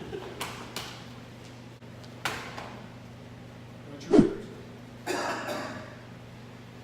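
A few short, sudden hits and swishes, the loudest a heavy thump about four seconds in, followed by a hissy burst that fades, over a steady low hum.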